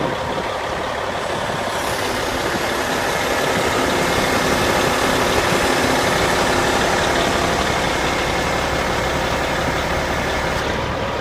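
Caterpillar 3406E inline-six diesel of a heavy dump truck idling steadily. It gets a little louder and brighter from about two seconds in until near the end.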